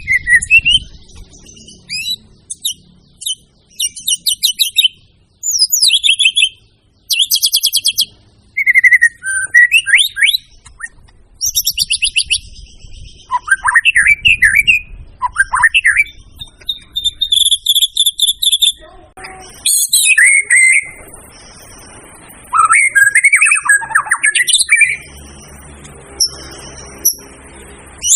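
White-rumped shama (murai batu) singing in full voice: loud bursts of rich whistled phrases, fast rattling trills and sharp chirps, broken by short pauses. A thin, steady high tone sits behind the song in the second half.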